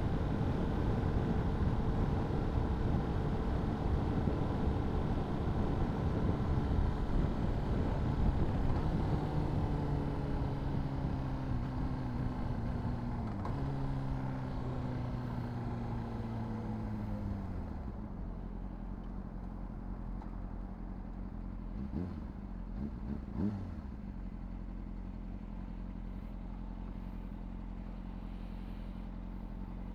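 Honda CBR600RR's inline-four engine at riding speed with wind noise, then slowing down: the engine note falls in pitch in steps as it downshifts. After about eighteen seconds it settles to a steady low idle, with two brief blips of the throttle a few seconds later.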